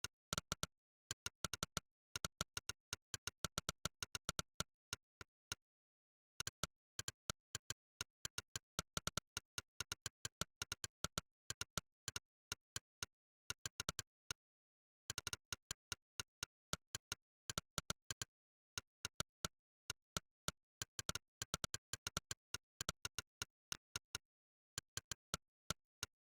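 Monkeytype's synthetic 'click' keypress sound effect, one short sharp click per keystroke, in fast typing runs broken by short pauses. The silence between the clicks is clean, with no room noise.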